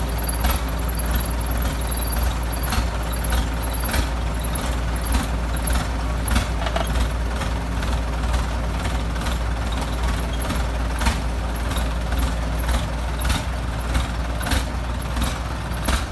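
Heavy diesel engine of an excavator running steadily with a deep rumble, with irregular sharp clicks and knocks of metal throughout.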